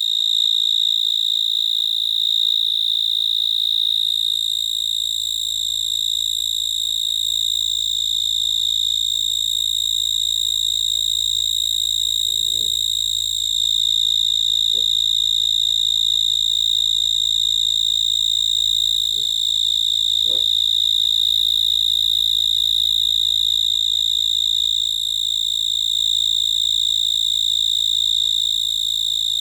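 Cricket chirping in a continuous, steady, high-pitched trill, with a few faint clicks around the middle.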